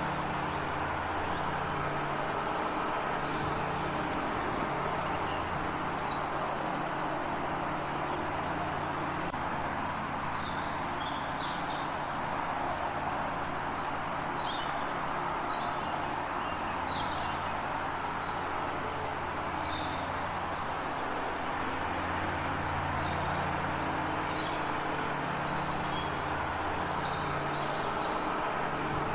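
Small birds chirping in short, scattered high calls over a constant low hum and a steady rushing background noise.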